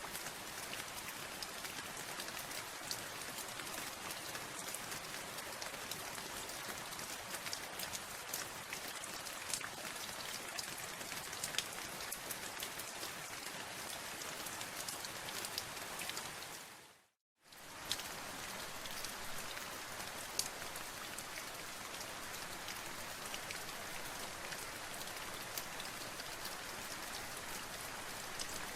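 Steady rain with many distinct water drops ticking through it. About seventeen seconds in the sound fades out to silence for under a second, then comes back suddenly.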